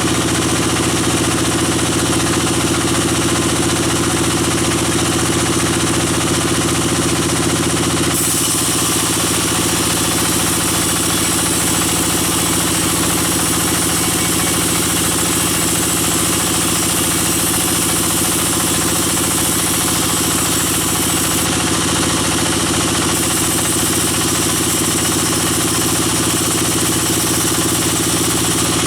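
Sawmill band saw running with its engine drive, a steady mechanical drone. About eight seconds in a brighter high hiss joins it and carries on, dropping away briefly near the end.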